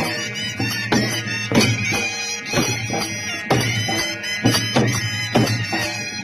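Traditional folk music: a shrill reed wind instrument holding a steady, drone-like melody over loud drum strikes that fall roughly once a second.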